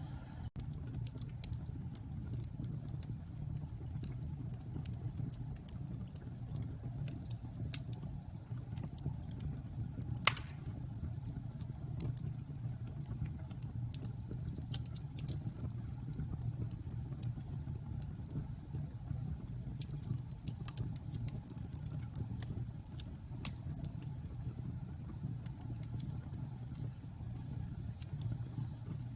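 Bonfire burning: wood crackling in scattered small clicks over a steady low rumble, with one sharper, louder pop about ten seconds in.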